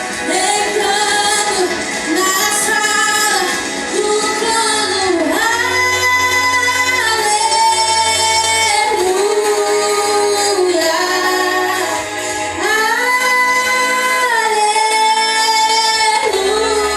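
A woman singing a slow worship song over an accompaniment with a steady low bass, the sung notes held long and gliding between phrases.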